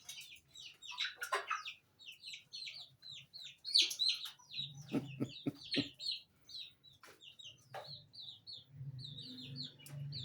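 Mixed flock of chickens and young turkeys clucking and peeping, with many short, high, falling peeps running all through and a few sharp clicks around the middle.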